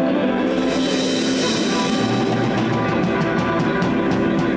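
Live blues band of electric guitars, bass and drum kit playing the song's closing bars, with a run of drum hits in the second half.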